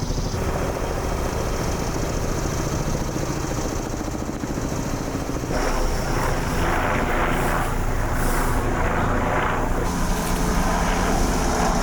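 An engine or motor running steadily with a low hum. About six seconds in, a louder rough rushing noise joins it.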